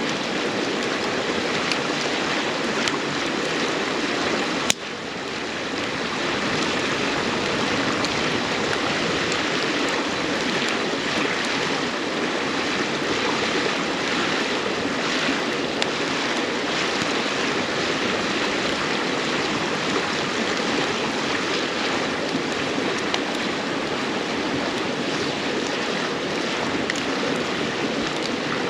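River stream running steadily, with a few faint crackles of burning firewood over it. A single sharp click about five seconds in, followed by a brief drop in the sound.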